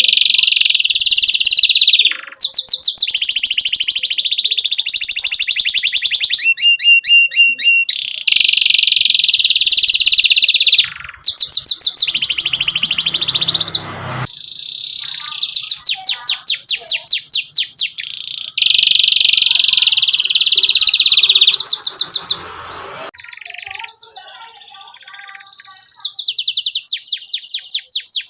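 Domestic canary singing a long, loud song: very fast rattling trills alternate with sustained buzzing, warbling phrases. A softer, quieter passage comes about three-quarters of the way through before the fast trills return.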